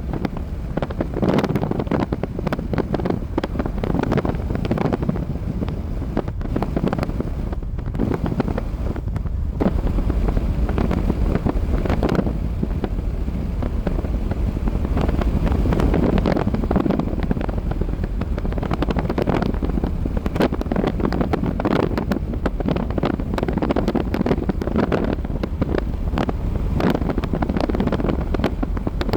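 Wind blowing steadily, a continuous low rush that swells in gusts every few seconds, with rough buffeting throughout.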